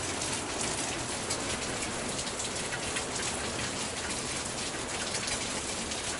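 Pouring rain falling on a truck camper, heard from inside it: a steady, even hiss made of many small drop hits.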